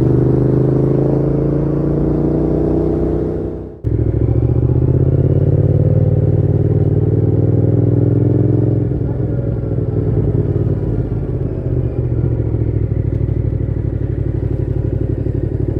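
Yamaha MT-07's parallel-twin engine through a Mivv GP Pro full exhaust with the dB killer fitted, running on the road. The note climbs slowly for the first few seconds, breaks off sharply for an instant just before 4 s, then holds steady while cruising, easing a little about 9 s in.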